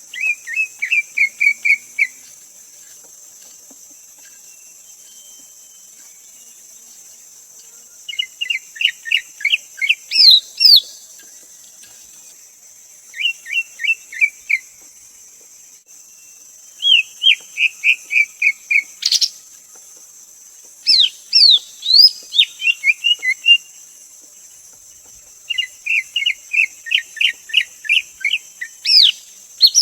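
Greater green leafbird calling: short bursts of rapid, whistled notes, each run lasting a second or two and repeating every few seconds, with a few higher sweeping notes between.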